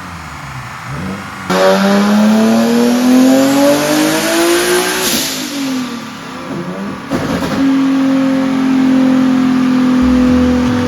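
Turbocharged Nissan 370Z's 3.7-litre V6 running on a chassis dyno: about a second and a half in it goes to full throttle and revs rise steadily in a wide-open-throttle pull. The revs peak and fall away at about five seconds, and from about eight seconds the engine holds a steady speed.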